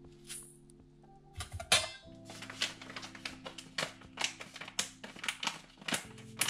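Clicks and clinks of a utensil on dishes during food preparation, irregular and several a second from about two seconds in, after a short rustling rush, over soft background music.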